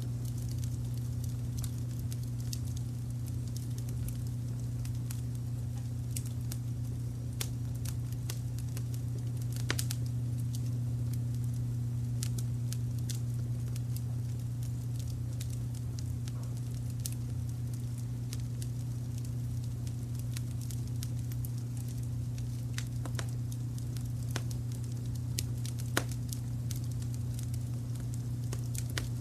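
Crackling fire with irregular sharp pops and snaps, over a steady low rumble of brown noise.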